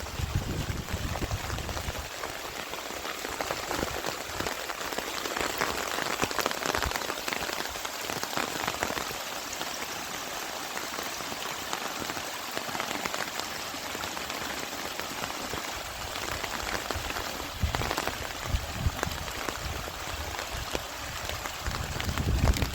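Steady rain falling, a dense even hiss of many close drops. Low rumbles come in during the first two seconds and again toward the end.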